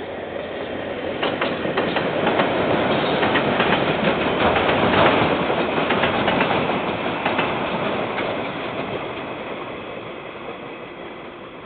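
KiwiRail train passing, its wheels rumbling and clicking over the rail joints. It grows louder to a peak about halfway through, then fades away. Heard through a security camera's microphone, thin and dull at the top.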